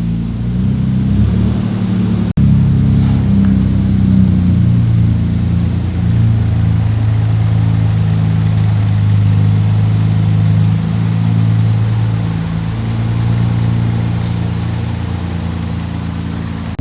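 Nissan Skyline R32 GT-R's twin-turbo inline-six idling steadily while it warms up, with a momentary break in the sound about two seconds in.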